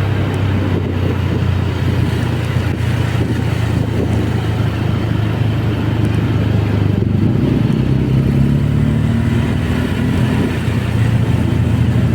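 Honda Beat single-cylinder scooter engine running steadily while riding, with road and wind noise. About two-thirds of the way through the engine note shifts and rises slightly as the throttle changes.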